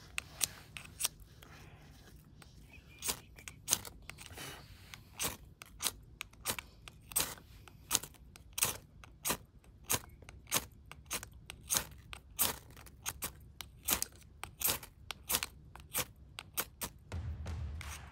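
Wood fire crackling: irregular sharp pops and snaps from burning wood, coming more often from the middle of the stretch onward.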